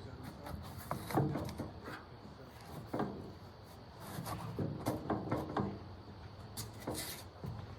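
Irregular wooden knocks, clatters and rubbing, as of boards being handled and fitted, spaced unevenly with a cluster about halfway through.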